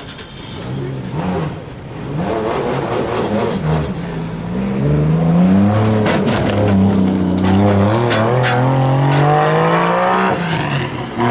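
A car engine revving as the car pulls away, its pitch climbing and falling several times and growing louder partway through, then a long slow rise that drops off near the end.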